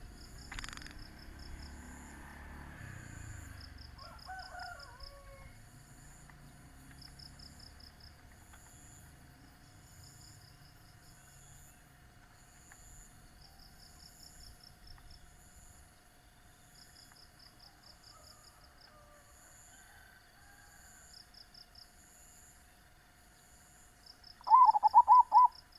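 Zebra dove giving a short, rapid run of coos near the end, by far the loudest sound. Throughout, insects chirp in short high trills repeating every couple of seconds over a faint steady hum.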